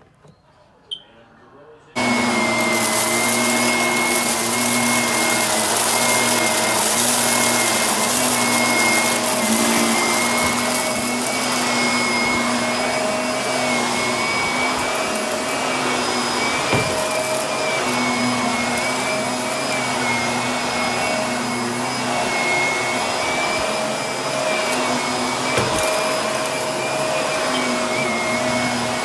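Vacuum cleaner comes on abruptly about two seconds in and runs steadily with a high whine, picking up dirt from carpet, with a couple of sharp ticks later on.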